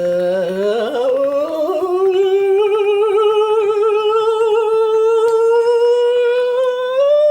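A person humming or singing one long, loud note that wobbles and slowly climbs in pitch, rising more steeply near the end.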